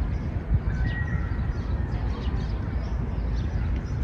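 City park ambience: a steady low rumble of distant traffic, with small birds chirping in short, scattered calls throughout.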